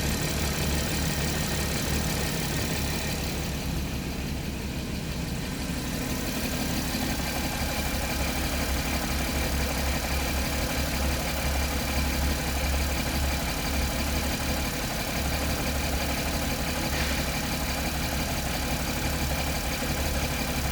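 A 2014 Porsche Cayman S 981's 3.4-litre flat-six engine idling steadily.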